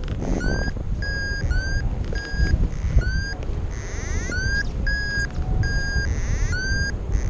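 Flight variometer beeping, a string of short tones about two a second, some sliding up in pitch, the signal that the glider is climbing. Heavy wind buffets the microphone underneath.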